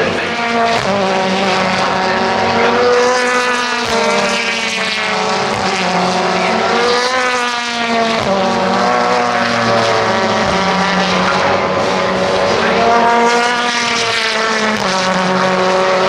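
Several race cars' engines accelerating hard past the track, each note climbing in pitch, breaking at an upshift and climbing again, with the cars overlapping one another.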